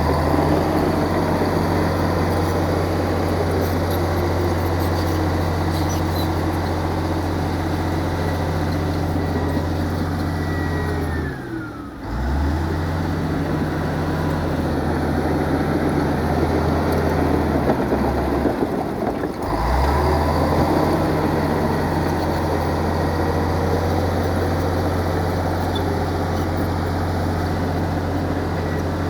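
Heavy diesel earthmoving machinery running with a steady, deep engine drone. The drone drops out briefly twice near the middle, then resumes.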